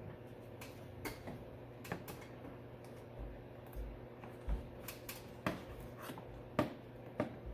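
Irregular clicks and knocks of plastic clips and electrical connectors being worked loose by hand in a truck's engine bay, about a dozen over a steady low hum.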